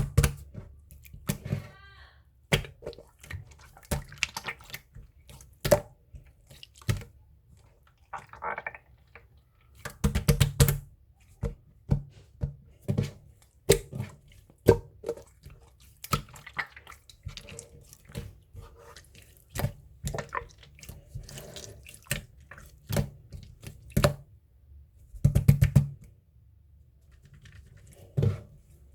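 Slime being squished and worked, making irregular wet clicks and pops, with two spells of rapid crackling pops, about ten seconds in and again later.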